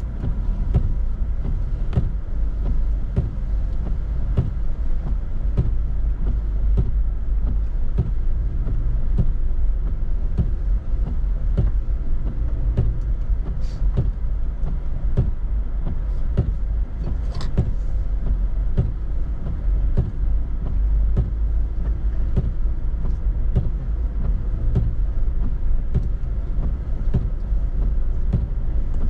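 A car on a snowy road: a steady low rumble with frequent small, irregular clicks and knocks.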